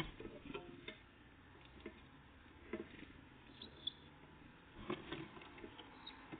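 Small birds pecking and hopping at a feeder: scattered faint taps and clicks, with a brief faint high note about halfway through.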